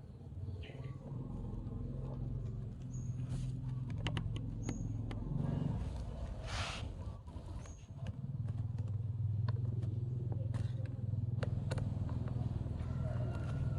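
A motor running steadily with a low hum that dips for about a second midway and then picks up again, with scattered sharp clicks and a few short high chirps.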